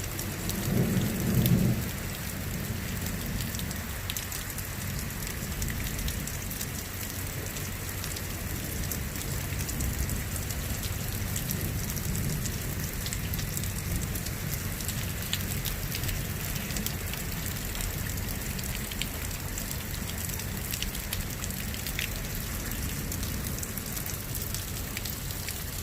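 Steady rain falling, with many fine drop impacts over an even hiss and a low rumble underneath. A louder low rumble swells from about half a second to two seconds in.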